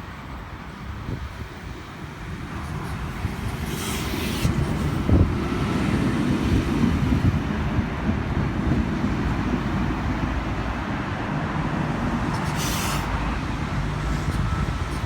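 Electric V-set intercity train pulling into the platform: a low rumble of wheels and motors builds over the first few seconds and then holds steady. Two short high hisses come about four seconds in and again near the end.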